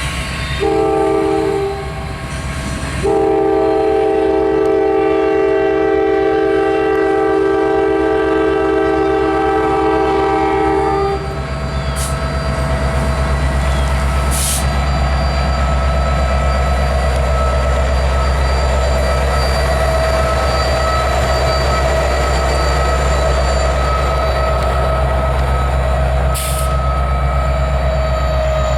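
Norfolk Southern diesel locomotive sounding its horn: a short blast, then a long chord of about eight seconds. After that comes the steady low rumble of the passing train, with a few sharp clicks.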